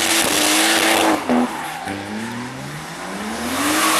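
Drift car's engine held at high revs with the tyres squealing. About a second in it lifts off with a short blip, then revs climb steadily again.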